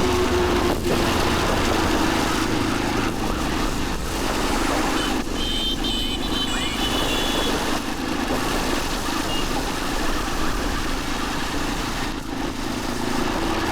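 Motorcycle riding through city traffic: its engine running under a steady rush of road and wind noise. A brief high tone sounds about five to six seconds in.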